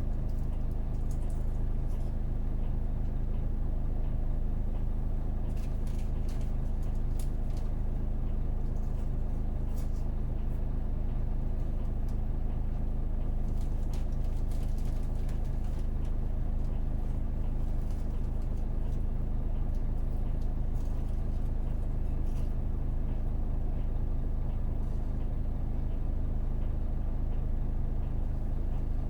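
Hino KV234 route bus's 6HK1 inline-six diesel engine running at a steady note, heard from inside the passenger cabin, with scattered light clicks and rattles.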